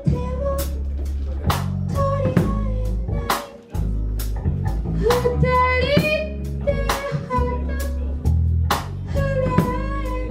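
Band music with electric guitar, bass and a drum kit keeping a steady beat, in a blues-flavoured instrumental passage between sung lines.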